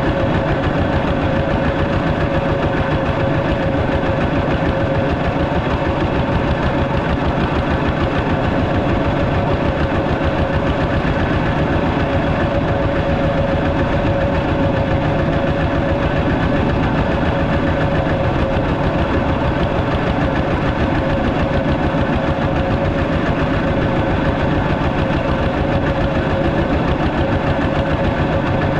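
Walking tractor's single-cylinder engine running steadily with a fast, even chugging beat.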